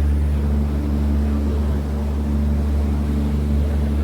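Power boat's engine running steadily while cruising, a low even drone with a hum of overtones above it.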